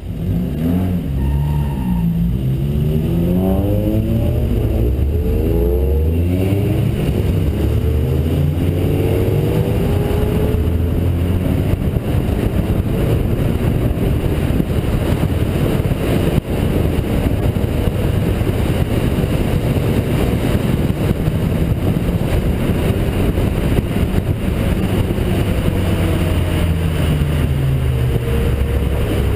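Honda Integra DC2 engine heard from inside the car, pulling away hard and revving up through several gears, each rise in pitch cut off by an upshift. It then runs steadily at cruising speed with road and wind noise, and the revs fall near the end as the car slows.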